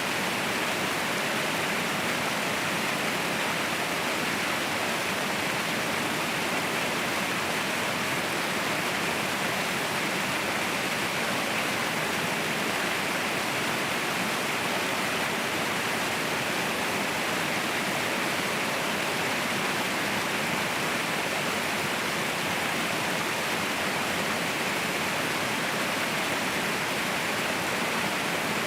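Mountain waterfall: a steady rush of falling water, even and unbroken, bright and hissy with little deep rumble.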